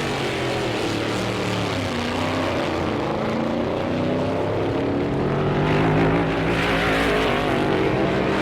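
Modified drag-racing car's engine at full throttle down the strip, loud, its pitch sweeping up and dropping back more than once.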